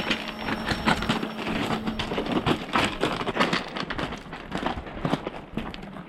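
Quick, irregular footsteps crunching on gravel: a person hurrying or running.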